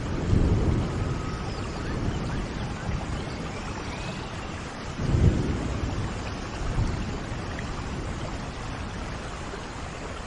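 Heavy rain falling in a steady hiss, with low rumbles that swell up about half a second in and again around five and seven seconds.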